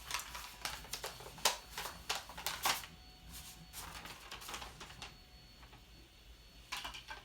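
Irregular clicks, taps and short rustles of handling noise, closer together in the first few seconds and again near the end.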